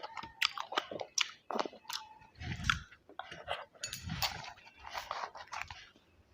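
Close-miked eating sounds from a curry-and-rice meal: wet chewing and smacking, a quick run of sharp mouth clicks and some crunchy bites, with two fuller, louder mouthfuls about two and a half and four seconds in.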